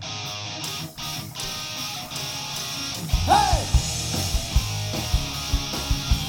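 Live rock band: electric guitar strumming alone, then about halfway through the drums and bass come in with steady kick-drum beats and a brief swooping note, the start of a song's full-band intro.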